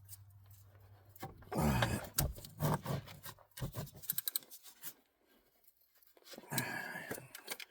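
Hand tools and parts being handled: rubbing and scraping with a quick run of light clicks about halfway through.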